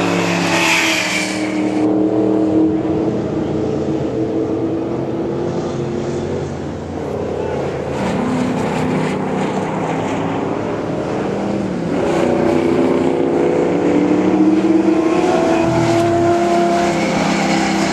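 Mustang V8 engines running hard around a track and passing by, the engine note rising and falling several times as the cars accelerate and ease off.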